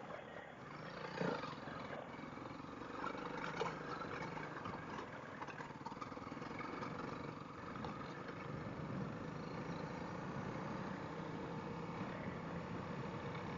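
Honda CRF dual-sport motorcycle's single-cylinder engine running steadily while riding a dirt trail, with a few knocks and rattles in the first four seconds.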